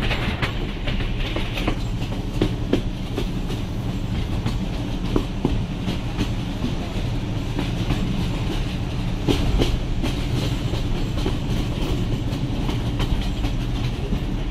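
Passenger train running along the track, heard from aboard. A steady low rumble with irregular clicks and clacks from the wheels over the rails.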